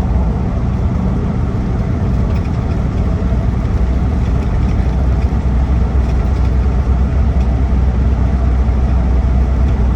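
Inside the cabin of a 2008 Land Rover Defender 90 TDCi, its 2.4-litre four-cylinder turbodiesel cruising steadily just under 2,000 rpm in the automatic's lock-up top gear. A constant low engine drone with road and tyre noise.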